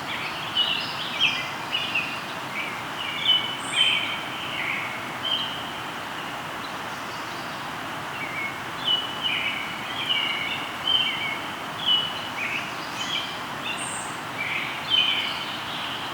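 Birds singing over the steady rush of a flowing river: quick chirping notes in two bouts, with a pause of about three seconds between them.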